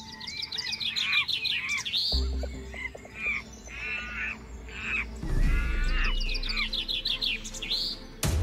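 Birds chirping and calling in quick repeated arching notes and rapid trills, over a low, steady music bed. Drum-heavy music cuts in abruptly at the very end.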